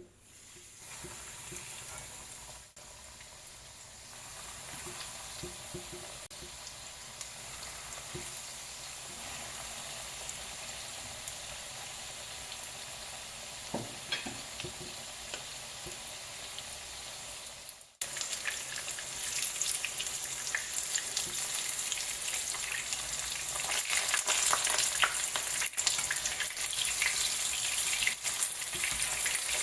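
Fish, snapper, deep-frying in hot oil: a steady sizzle with fine crackling, louder in the last third.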